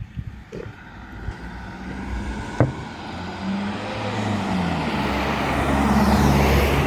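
A motor vehicle approaching, its engine hum and tyre noise growing steadily louder, with a single sharp click about two and a half seconds in.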